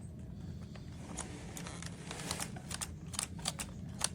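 A run of sharp, irregular plastic clicks from handling a Dyson V8 cordless stick vacuum, growing more frequent toward the end. The vacuum's motor is not running: it has just stopped working.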